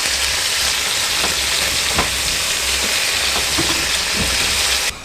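Food sizzling in a frying pan, a steady dense hiss with a few light knocks; it cuts off suddenly near the end.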